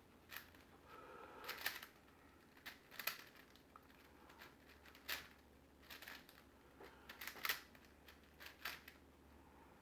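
Plastic clicks and clacks of a big Rubik's-type cube's layers being turned by hand, in short irregular bursts, as its edges are being paired.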